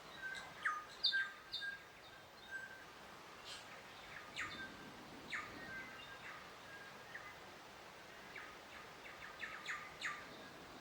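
Several birds chirping and calling, short high chirps and quick falling notes scattered throughout over a faint background hiss, thinning out for a few seconds in the middle.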